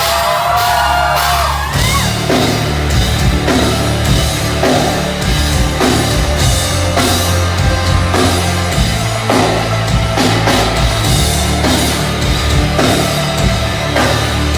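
Rock band playing live: the instrumental intro of a song, with drums keeping a steady beat under heavy bass and distorted guitars. In the first two seconds a pitched line bends and slides upward before the full band comes in.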